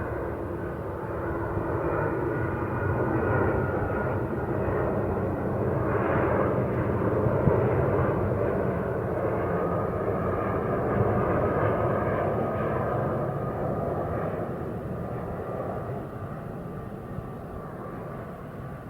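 Jet airliner's engines passing, a steady noisy rumble with a faint whine. It grows louder towards the middle, then fades near the end.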